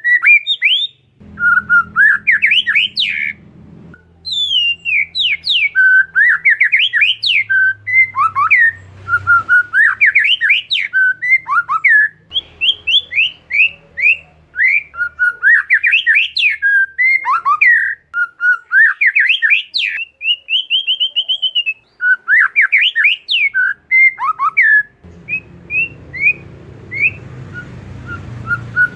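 Oriental magpie-robin (kacer) singing a fast, varied song of sharp rising whistled notes and chatter, with one longer steady whistle about two-thirds of the way through. A faint low hum comes and goes beneath the song.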